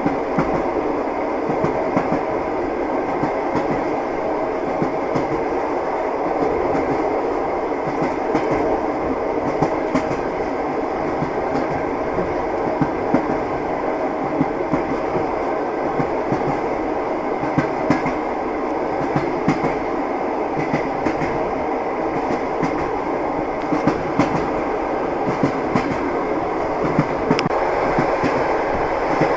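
Train running along the rails: a steady rumble with the wheels clacking at irregular intervals.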